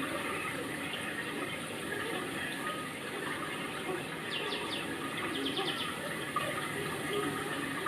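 Steady rushing water, with two short runs of high chirps in the middle.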